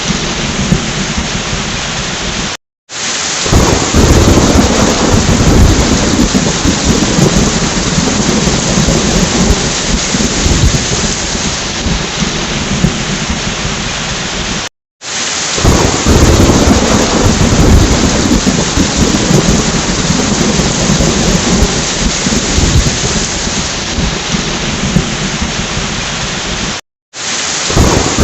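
Steady heavy rain with rolling thunder rumbling underneath. The sound cuts out completely for a fraction of a second three times, about twelve seconds apart. Each time it comes back louder, with a stronger rumble of thunder.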